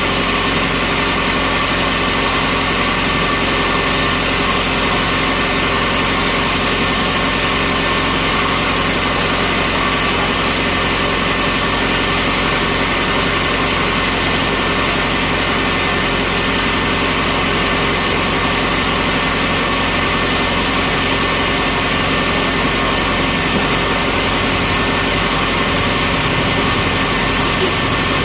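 Sawmill machinery running steadily, a constant machine drone with several steady tones and no change in load.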